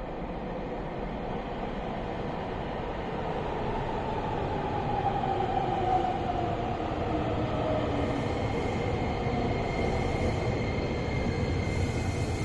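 Nagoya Municipal Subway N3000-series train pulling into the station. Its motor whine falls in pitch as it brakes, over a steady rumble of wheels on rail.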